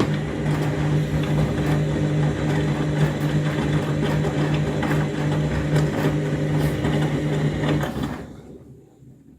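Overloaded, heavily sudsed washing machine in its wash action: the motor hums steadily as the drum turns, with clicks and swishing of the wet load. About eight seconds in the motor stops and the sound dies away as the drum comes to rest.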